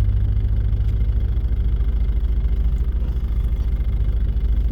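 Nissan Patrol 4WD's engine running steadily at low revs, a low even drone heard from inside the cabin.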